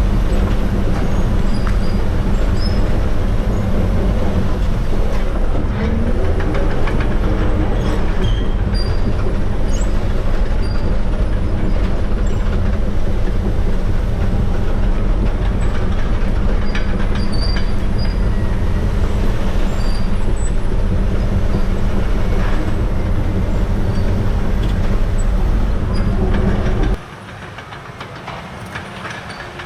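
Caterpillar D6R crawler dozer's C9 diesel engine running steadily, with rapid clanking from its steel tracks. About 27 seconds in, the sound drops abruptly to a much lower level.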